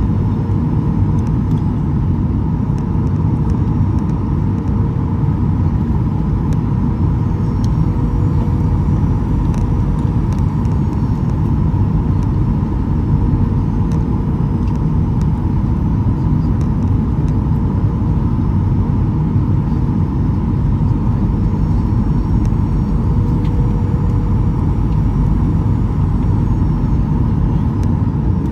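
Boeing 737-800 cabin noise from a window seat beside the right CFM56-7B engine in flight: a steady, unchanging roar of engine and airflow, heaviest in the low end, with a faint steady tone running through it.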